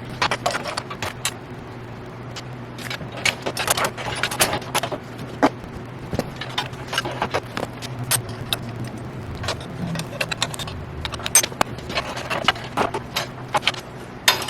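Metal parts of a chainsaw mill attachment clinking and rattling as they are handled and refitted, many irregular sharp clicks, over a steady low hum.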